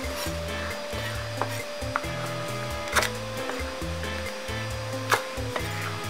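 Kitchen knife cutting green bell pepper on a cutting board: a few sharp taps of the blade hitting the board, the loudest about three and five seconds in, over background music with a bass line and held notes.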